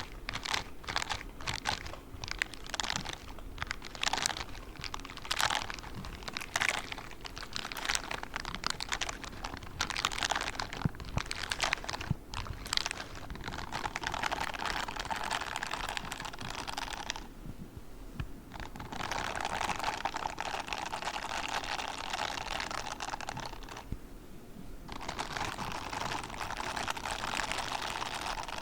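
Grey spiked gloves worked close to the microphone for ASMR: quick irregular taps and scratches, then longer stretches of steady scratchy rubbing that stop briefly twice.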